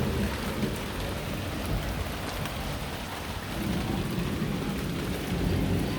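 Steady heavy rain falling during a thunderstorm, with a low rumble of thunder underneath that swells a few seconds in.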